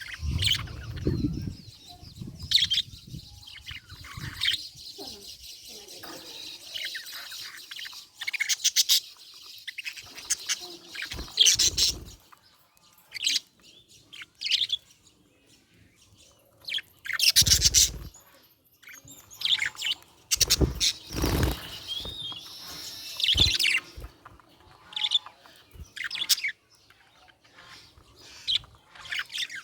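Budgerigar chirping and chattering in short, irregular bursts of high twitters and trills. A few dull thumps stand out, the loudest about halfway through and again a few seconds later.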